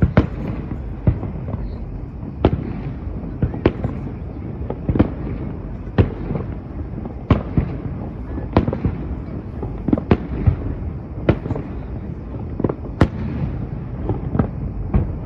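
Fireworks display with shells bursting in an irregular string of sharp bangs, roughly one or two a second, over a constant low rumble. One bang about two-thirds of the way through is the loudest.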